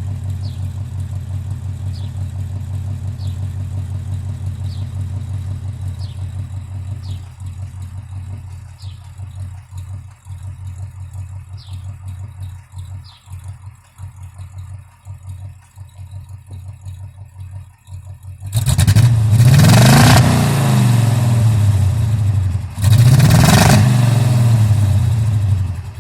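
ZMZ-511 V8 in a GAZ-24 Volga idling through its exhaust, slightly rough: the engine is misfiring a little while its carburettor is being adjusted. The idle sags and turns uneven partway through, then the engine is blipped twice, rising and falling each time. A faint chirp repeats about once a second early on.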